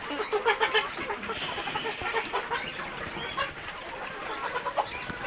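A flock of chickens clucking, with many short overlapping calls. The calls are loudest and densest in the first second.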